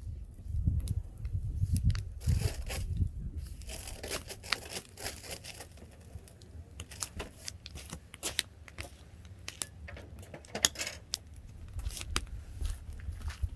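Firewood burning, crackling with irregular sharp snaps and pops over a soft hiss, with a low rumble in the first few seconds.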